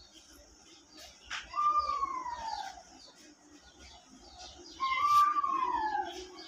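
A bird calling twice: two long whistled calls, each sliding down in pitch over about a second, a few seconds apart.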